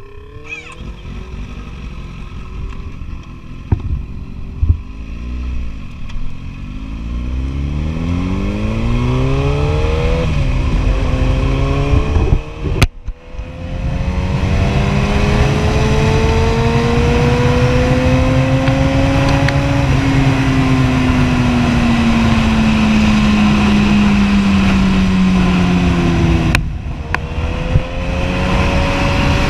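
Kawasaki Ninja ZX-10R's inline-four engine accelerating through the gears: the pitch climbs in each gear and drops at each shift, then falls steadily for several seconds as the rider eases off before pulling again near the end. Wind rush grows over the engine as speed rises.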